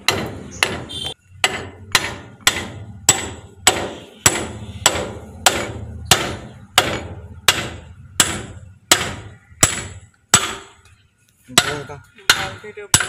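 Hammer striking steel, steady ringing blows about two a second, with a short pause near the end before a few quicker blows.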